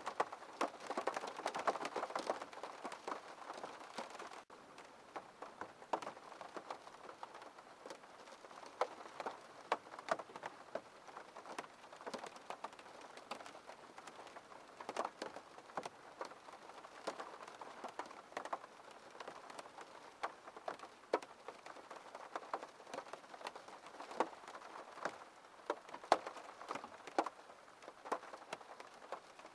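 Rain falling on a window pane: a steady hiss with many separate drops ticking on the glass, heavier for the first few seconds, then lighter and even.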